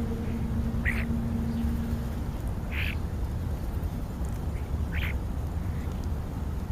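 American crow cawing: three short, harsh caws about two seconds apart, over a low background rumble.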